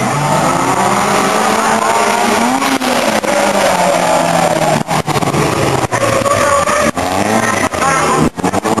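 Car engine revving up and down repeatedly, its pitch rising and falling, with a few sharp drop-outs near the end.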